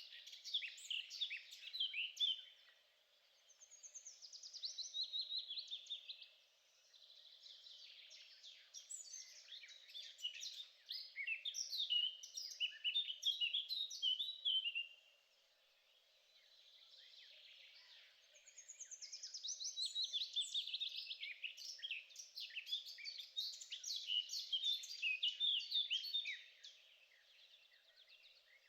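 A songbird singing long phrases of rapid, varied chirps and trills, each run lasting several seconds with short pauses between, over a faint steady low hum.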